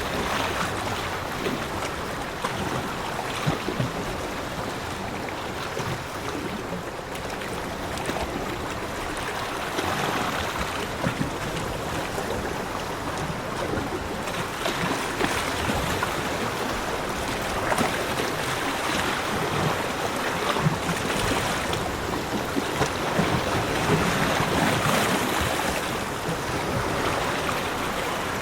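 Sea waves washing onto a beach, a steady rushing of surf that swells and eases, a little fuller in the second half.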